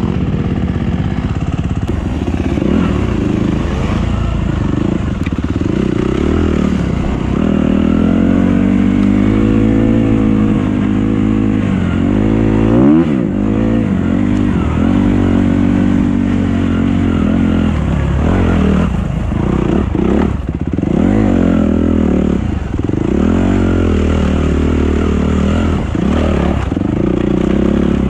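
Dirt bike engine running as it is ridden, its pitch rising and falling with the throttle. A sharp rev comes about thirteen seconds in, and a few quick throttle chops follow around twenty seconds in.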